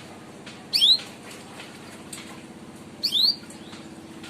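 Domestic canary giving its sharp 'cuit' chirp call twice, each a quick high sweeping note about two seconds apart, over a steady low hum.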